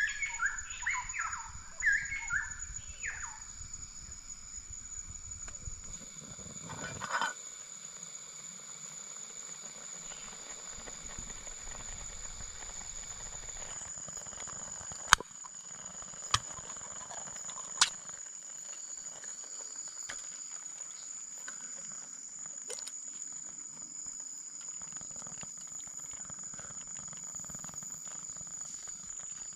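Forest ambience with a steady high-pitched insect drone. A bird gives quick chirping calls in the first three seconds, and there are three sharp knocks around the middle.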